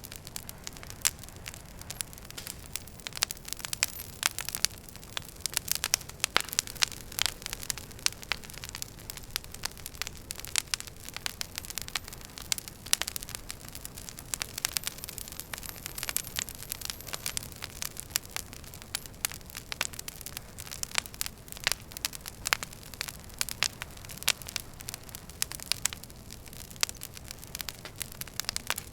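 Wood fire burning in a fireplace: dense, irregular crackling and popping of the logs over a steady low rush of the flames. A faint high hiss that falls slightly in pitch sounds for a few seconds about halfway through.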